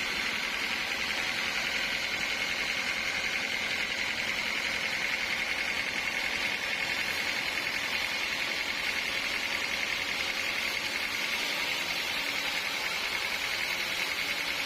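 Sawmill saw running steadily through a teak log, a continuous high whine over a rushing noise.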